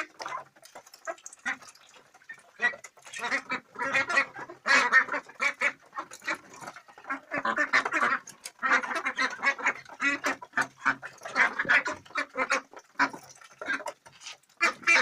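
Flock of domestic birds calling: a busy run of short, rapid calls in clusters, with brief gaps.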